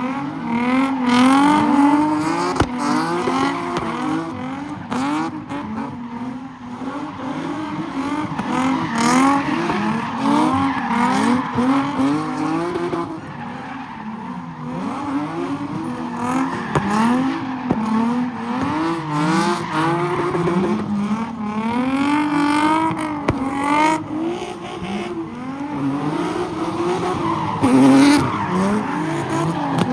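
Car engine revving up and down over and over with tyres squealing and skidding, as a car spins donuts in a car pit.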